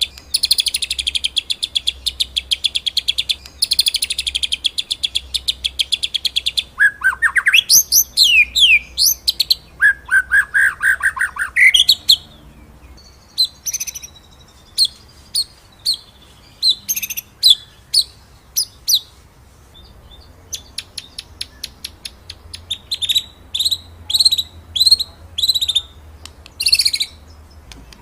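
White-rumped shama (murai batu) singing in the rolling, 'shooting' style. For the first six or seven seconds it gives long, fast, rattling high trills, then swooping whistled notes and a lower trill about ten seconds in. After that come sharp, separated notes and quick repeated phrases.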